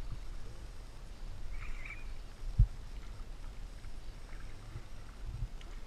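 Canoe being paddled on a river: a steady low rumble of water and movement, with one sharp knock against the canoe about two and a half seconds in and a few softer knocks near the end.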